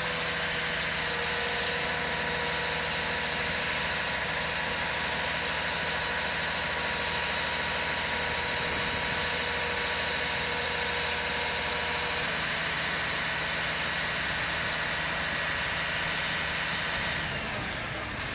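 Heavy truck engine revving up at the start and held at steady high revs with a high whine, easing off near the end.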